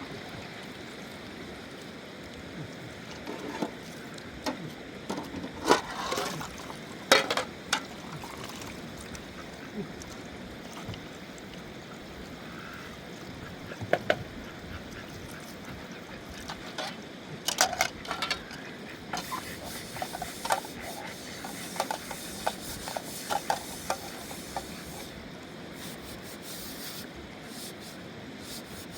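Irregular knocks and clatters, loudest about six, fourteen and seventeen seconds in, over a steady background hiss.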